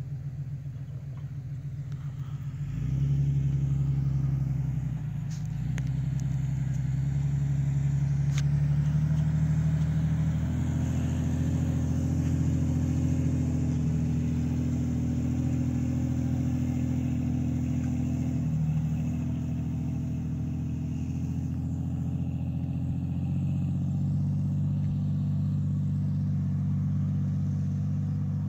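Jeep engine running under load, its note growing louder about three seconds in and then stepping up and down in pitch several times as the revs change.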